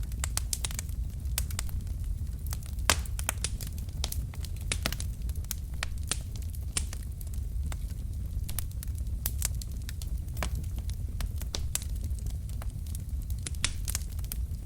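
Wood fire burning in a fireplace: logs crackling with irregular sharp pops, the loudest about three seconds in, over a steady low rumble of the flames.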